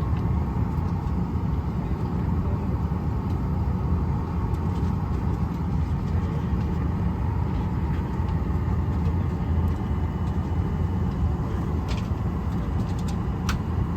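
Steady low rumble inside an airliner cabin, the drone of the aircraft's engines and air system, with a few faint clicks near the end.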